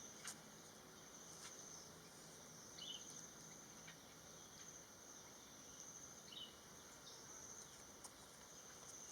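Faint, steady high-pitched insect trill, cricket-like. Two brief chirps come about three and six seconds in.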